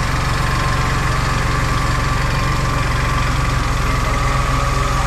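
Engine of a compact machine idling steadily, with a steady high tone over its low running.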